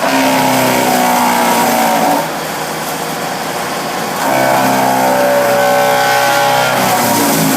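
Bearcat wood chipper running, its engine note twice dropping lower and growing louder under load as it chips material: for about two seconds at the start, then again from about four seconds in for about three seconds.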